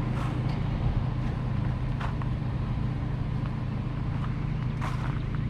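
Engine running at a steady idle, a low even hum, with a few light clicks and taps over it.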